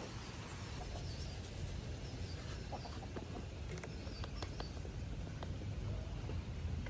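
Outdoor ambience: small birds chirping faintly over a steady low rumble, with scattered light clicks and taps.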